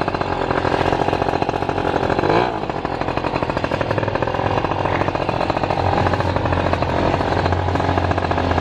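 A motor running with a rapid, steady pulsing; a deeper hum joins about halfway through.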